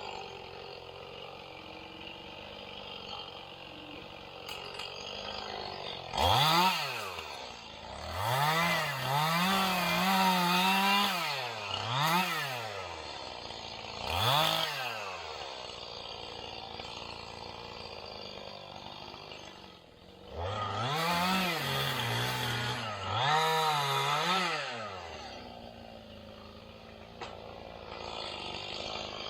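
Two-stroke chainsaw idling between about six throttle bursts, each a quick rise in pitch that holds for a second or two and drops back to idle. The longer held bursts fit the saw cutting wood.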